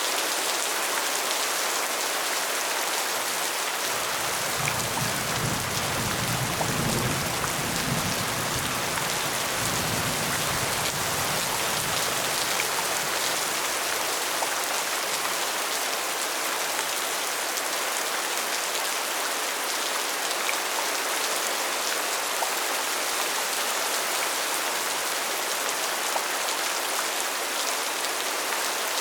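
Steady, dense rain falling, an even hiss of many drops. From about four seconds in to about twelve, a low rumble sits beneath it and then fades.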